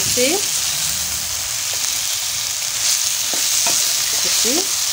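Goat meat, carrots and onions sizzling as they fry in a stainless steel pot, stirred with a wooden spoon that scrapes and knocks against the pot now and then.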